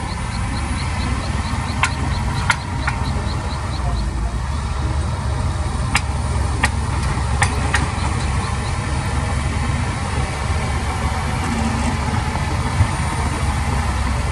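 Heavy diesel machinery engine running steadily with a deep rumble, with several sharp metallic clanks about two to three seconds in and again around six to eight seconds. A fast, high ticking sounds at times.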